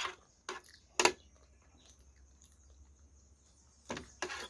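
Eating sounds at a plate of curry and rice: two sharp clacks about half a second and a second in, a quiet stretch, then a short cluster of clicks near the end.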